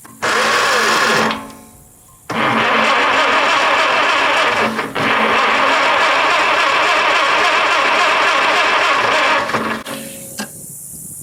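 Farmall Super A's four-cylinder engine turned over by its electric starter: a short burst of cranking, then a longer run of about seven seconds, without catching, because the ignition is giving little or no spark.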